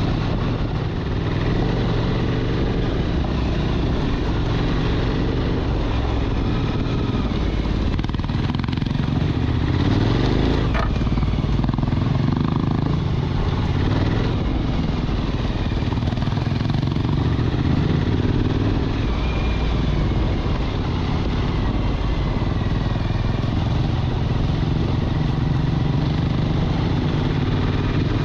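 Motorcycle engine running steadily while riding, its pitch wavering as the throttle changes, with a single sharp knock about eleven seconds in.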